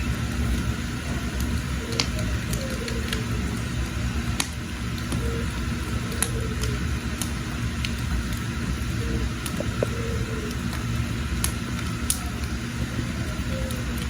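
Wood fire burning in a cooking hearth: a steady low rumble with sharp crackles and pops, roughly one a second.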